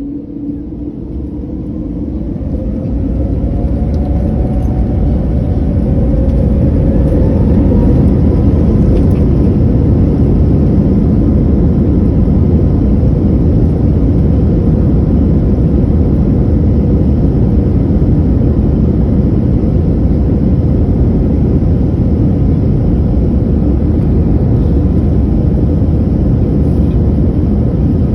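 Airliner jet engines spooling up to takeoff power: rising whining tones over the first several seconds as the sound grows louder, then a steady loud rumble of the engines at full thrust.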